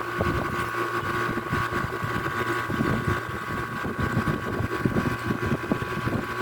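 Small 12-volt airbrush compressor running on test, a steady whine over a fast, uneven rattling buzz.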